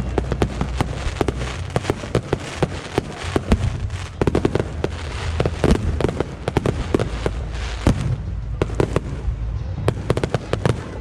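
Aerial fireworks display: a dense, rapid barrage of bursting shells and crackling reports over a low rumble, with a few heavier booms.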